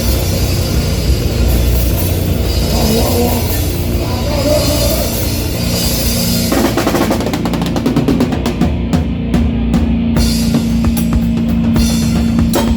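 Live heavy rock band playing loud, with drum kit and cymbals prominent. About six and a half seconds in, the playing turns to rapid, choppy drum hits over a held low note.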